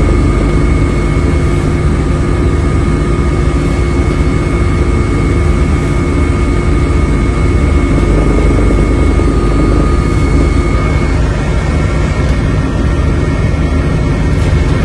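Steady, loud drone of an aircraft engine, a deep rumble with several steady whining tones over it; one of the higher tones drops out near the end.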